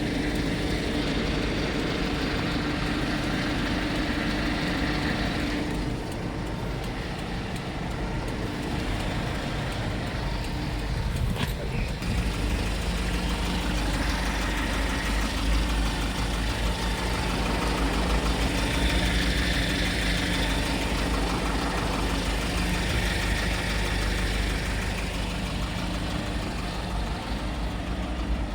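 2014 Kia Bongo III truck's diesel engine idling steadily, with a single sharp click about eleven seconds in.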